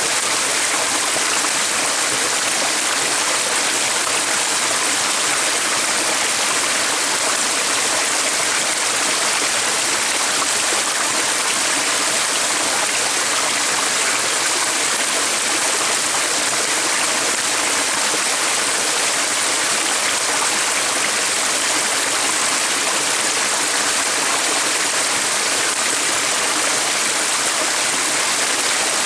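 Steady rush of running water, like a stream, with no change or pause.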